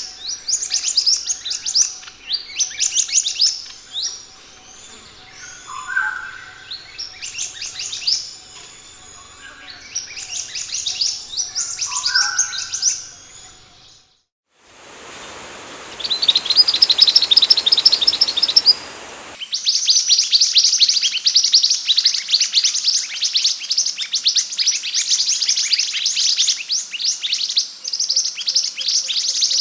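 Scarlet minivet (sepah hutan) chirping in rapid runs of high, down-slurred notes, with a lower call twice in the first half. The sound drops out briefly about halfway, then the chirping resumes, denser and continuous.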